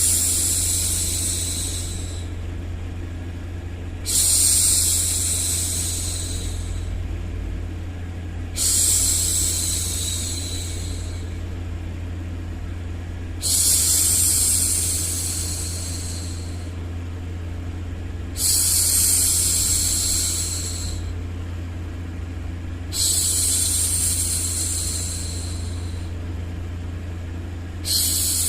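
A woman's voice shushing, a long 'shhh' about two seconds long repeated roughly every four and a half seconds, each starting sharply and trailing off, over a steady low white-noise rumble.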